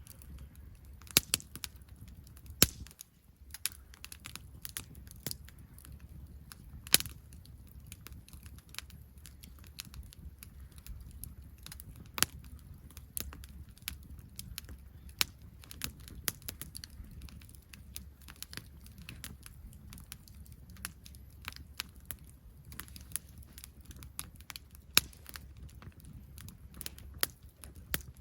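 Wood campfire crackling, with irregular sharp pops and a few louder snaps over a low steady rumble.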